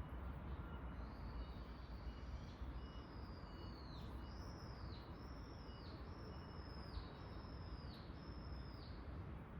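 A bird calling in a forest: a run of about eight high, arching notes, roughly one a second, over steady low background noise. Fainter short peeps repeat in the first half.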